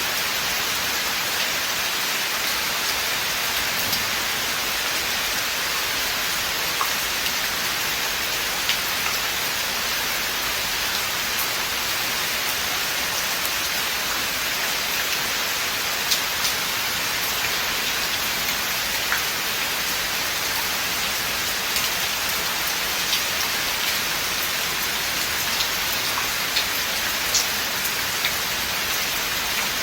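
Steady rain falling in a forest, a dense even hiss with scattered individual drops ticking sharply on nearby surfaces.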